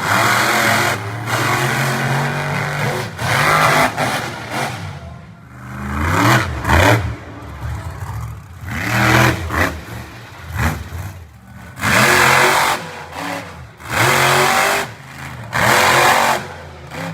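Monster truck engine revving hard in repeated surges every couple of seconds, its pitch climbing and dropping with each throttle blip.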